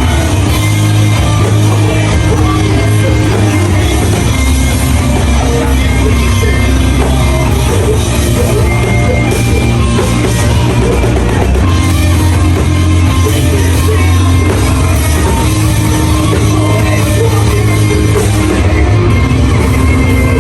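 Live metalcore band playing loud: distorted electric guitars and drum kit over a heavy, dense low end.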